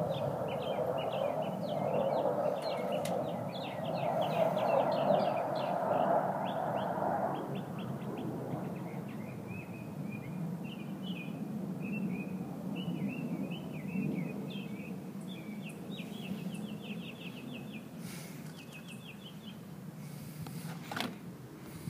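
Songbirds chirping in rapid repeated series throughout, over a steady low hum; a broad rushing background noise fades out about seven seconds in.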